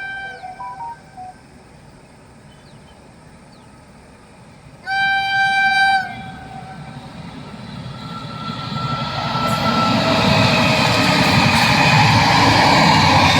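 An electric locomotive's horn blows one note of about a second, then a train approaches, its wheel and rail rumble growing steadily louder as it nears and passes close by.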